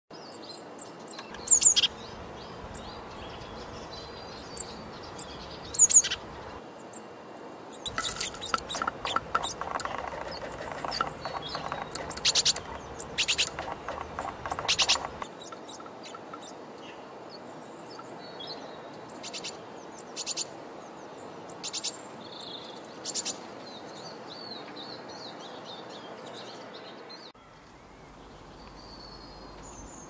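Small garden birds calling over a steady outdoor background: a couple of loud, sharp falling calls, then a quick run of short chirps and a few later groups of notes.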